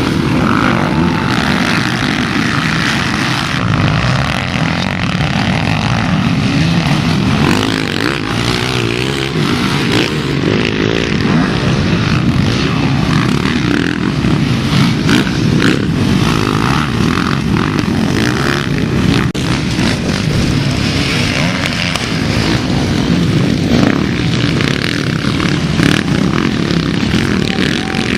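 Several motocross bikes racing, their engines revving up and down without let-up as they ride the track.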